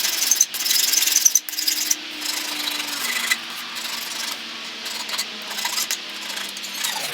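Tool scraping or abrading a part, a harsh rasping noise that is loudest and most uneven in the first two seconds, then steadier.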